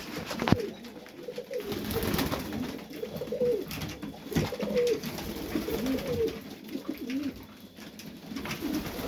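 Several domestic pigeons cooing together in a loft, overlapping low warbling coos, with a sharp click about half a second in.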